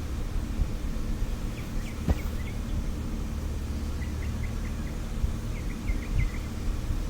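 Outdoor ambience: a steady low rumble with a small bird's short chirps in quick runs of four or five, and a single sharp click about two seconds in.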